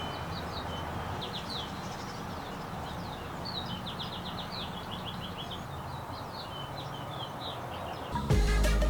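Small birds chirping in quick runs of short, high notes over a steady background hum. Music with a heavy bass comes in near the end.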